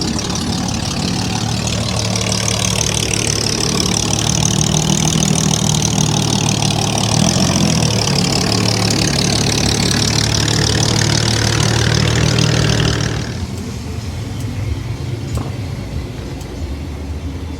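A car engine running steadily at idle close by, then it stops suddenly about 13 seconds in, leaving quieter crowd background.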